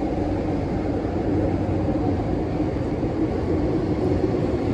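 Hong Kong MTR Island Line M-Train running in the station: a steady train noise with a low hum, unchanging throughout.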